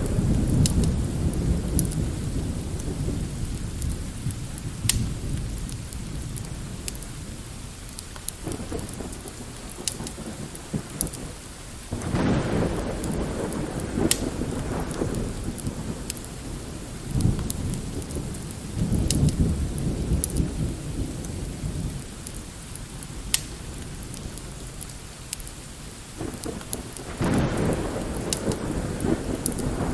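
Mixed thunderstorm ambience: steady light rain with rolls of distant thunder that swell and fade several times. Scattered sharp crackles from a wood fire are heard through it.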